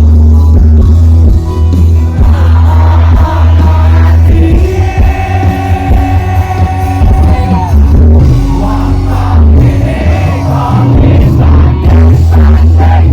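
A live campursari band playing loudly with a singer, heavy bass throughout.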